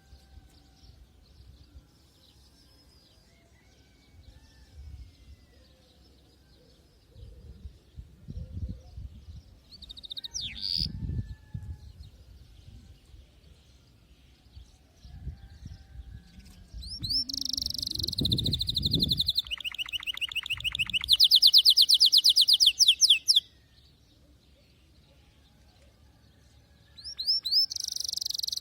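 Domestic canary singing: quiet at first with one short chirp about ten seconds in, then, past the middle, a loud run of fast trills of rapidly repeated high notes. The song stops for a few seconds and starts again near the end.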